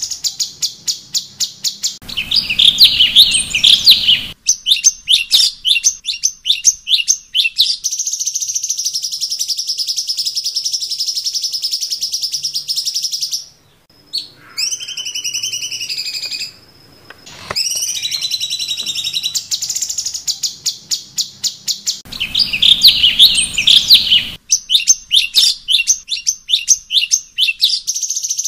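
A cucak cungkok songbird singing a varied, high-pitched song: rapid runs of repeated chirps, a long steady trill from about 8 to 13 seconds in, and sliding whistled notes around two brief pauses in the middle.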